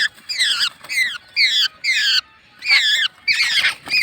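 Birds squawking in a fight: a quick series of harsh, wavering calls, about two a second, with a short break halfway through.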